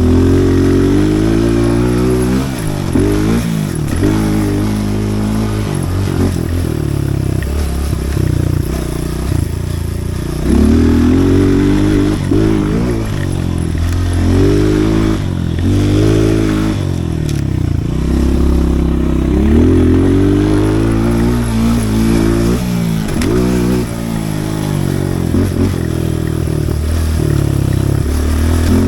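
Pit bike's small single-cylinder engine being ridden hard, its revs repeatedly climbing under throttle and dropping back as the rider shifts and slows for turns and jumps.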